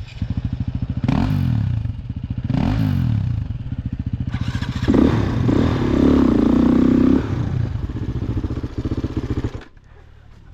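Single-cylinder four-stroke engine of a Husqvarna TE-450 dirt bike revving hard under load, with two quick rev blips early on and its loudest stretch in the middle. The engine sound drops away abruptly near the end.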